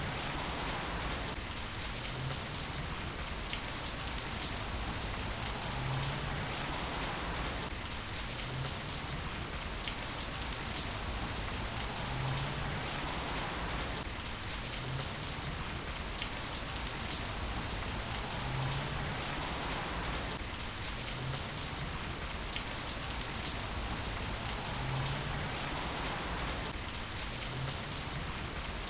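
Heavy rain falling steadily, with scattered sharp ticks of drops striking a surface.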